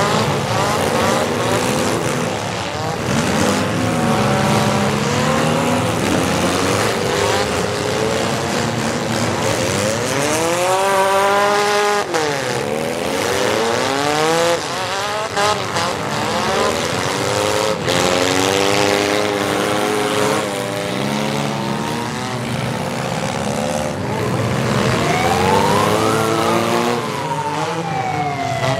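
Several demolition derby cars' engines revving hard up and down over one another, with a few sharp metal-on-metal hits. Near the end a whine climbs and then slowly falls.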